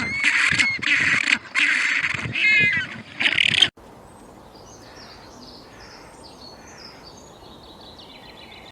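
Loud, harsh bird calls come in a quick run of separate cries for the first few seconds, typical of farm poultry such as geese or ducks. They cut off suddenly, leaving a quieter outdoor background with faint, high small-bird chirps.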